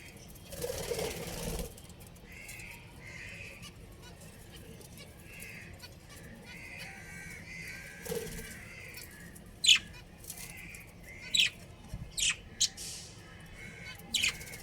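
Budgerigars chattering softly, with a brief burst of wing flapping about a second in and several sharp, loud falling chirps in the second half.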